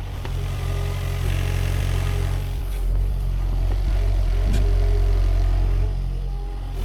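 Sany SY50U mini excavator's diesel engine running under working load, its note rising and falling as the hydraulics work, with a couple of faint knocks.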